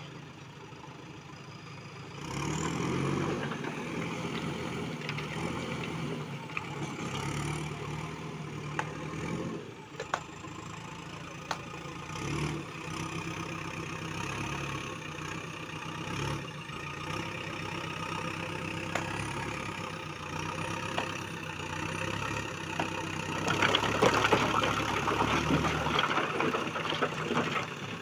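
JCB backhoe loader's diesel engine running steadily. It gets louder about two seconds in, a few sharp knocks come through the middle, and there is a louder, rougher stretch near the end.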